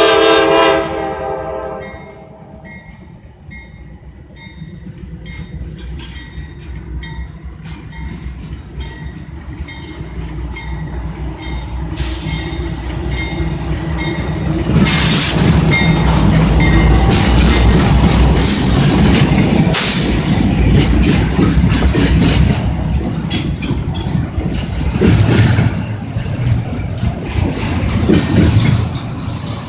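A train sounds its horn once, briefly, then runs past. The rumble builds and becomes loud about halfway through, with the rhythmic clickety-clack of wheels crossing rail joints.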